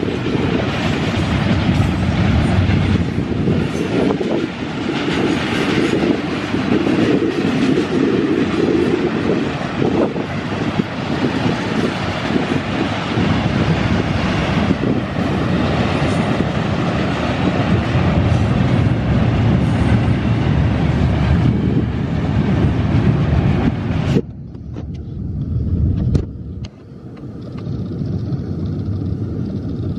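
Double-stack container train's well cars rolling past: a steady rumble and clatter of steel wheels on the rail joints. About 24 seconds in, the higher part of the noise cuts off abruptly, leaving a lower rumble.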